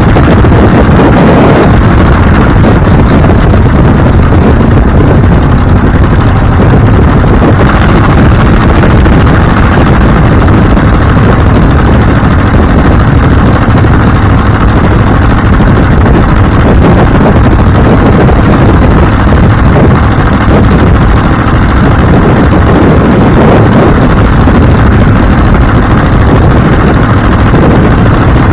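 A moving vehicle's engine and road and wind noise, loud and steady throughout.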